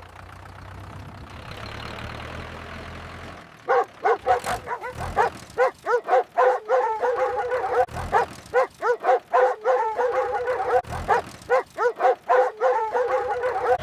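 A low steady hum with a hiss for the first three and a half seconds, then puppies yipping and barking in quick short high-pitched calls, several a second.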